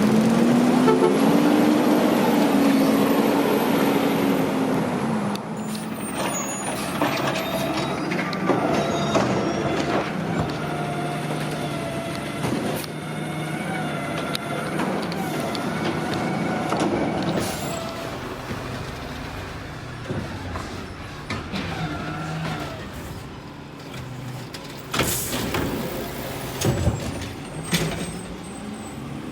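Large truck engine running, loudest at the start with a pitch that rises and falls, then changing tone as it moves. Near the end come two short, sharp hisses of air.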